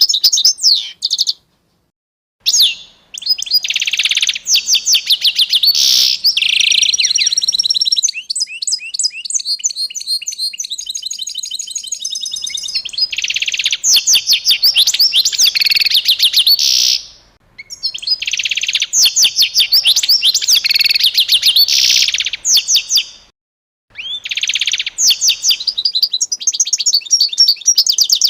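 A songbird singing long phrases of rapid repeated notes and trills, several phrases of a few seconds each broken by short silent gaps, one of them a fast, even ticking trill.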